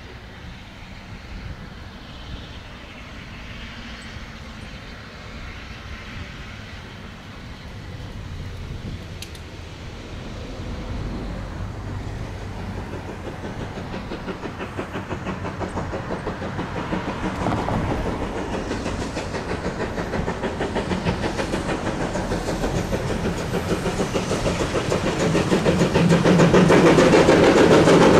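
A heritage railway train approaching along the line, growing steadily louder throughout and loudest near the end, with a fast rhythmic beat coming through as it nears.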